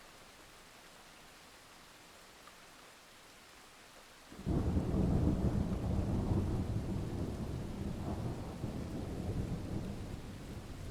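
Steady rain hiss, then about four seconds in a sudden loud, deep thunder rumble breaks in and rolls on, slowly fading.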